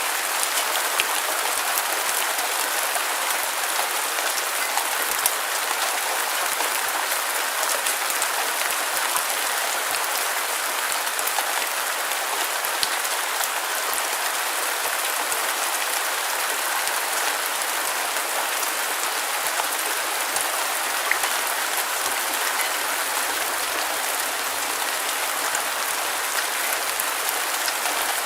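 Steady rain falling on a surface: a dense, even hiss with many small, sharp drop ticks, unchanging throughout.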